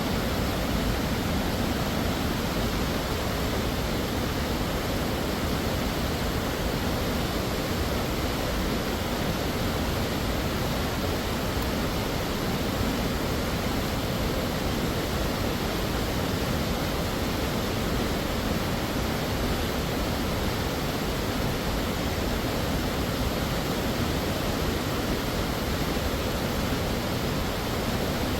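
Waterfall pouring, a steady unbroken rush of water that does not change.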